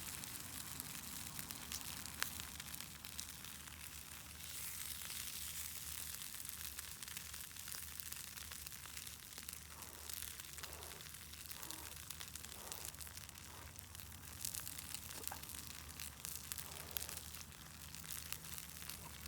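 Wood campfire crackling, with many small sharp pops over a steady hiss.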